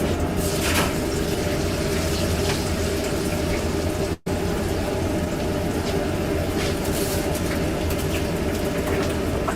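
Steady hum and hiss, like a running fan or flowing water, with a few light clicks and a brief dropout about four seconds in.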